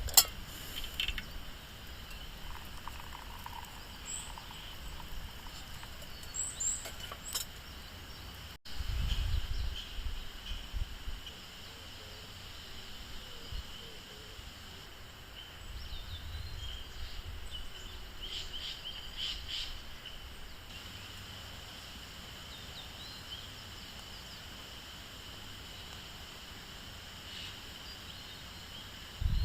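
Outdoor nature ambience: a steady high insect drone with a few short bird chirps and occasional low rumbles.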